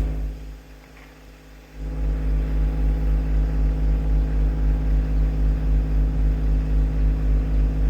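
Tractor engine running steadily at idle, a low rumble that pulses evenly several times a second; it drops away briefly about half a second in and comes back just before two seconds.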